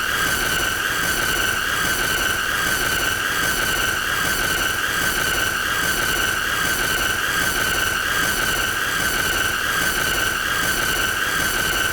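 A continuous, loud, high-pitched squealing tone, held steady without a break, with a noisy hiss beneath it.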